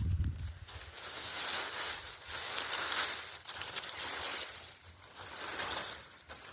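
Footsteps crunching and rustling through dry leaf litter on a forest floor, in uneven swells about a second apart, with a low thump at the start.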